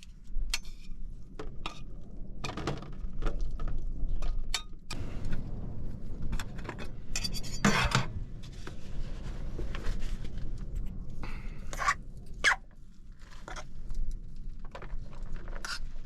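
Pots, dishes and utensils clinking and knocking while food is handled: irregular sharp clinks, busiest and loudest about halfway through.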